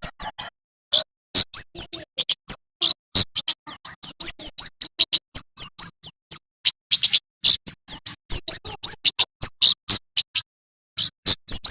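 Male prenjak keres (kemade jawa), a small songbird, singing without let-up in a fast, hard-hitting chatter. Quick high notes slide down in pitch, mixed with short buzzy rattles, several to the second, with a brief pause near the end.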